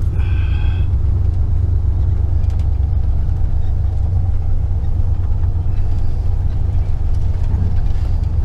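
Motorhome engine running at low speed, heard from inside the cab as a steady low rumble while the rig pulls out onto the street. A brief high-pitched tone sounds about half a second in.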